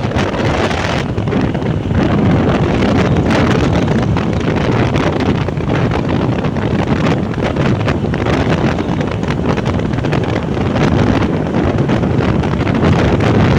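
Loud, steady wind rushing over the microphone of a moving motorbike, with riding noise underneath.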